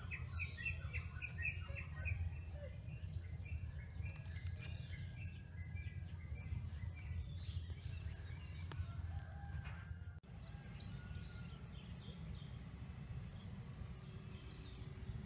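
Birds chirping outdoors, with a quick run of chirps in the first couple of seconds and scattered calls after, over a steady low rumble of ambient noise. The sound drops out briefly about ten seconds in.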